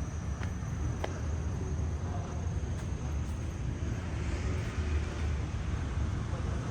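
Outdoor walking ambience: a steady low rumble, with a thin, steady high tone that stops about four seconds in and a few light clicks near the start.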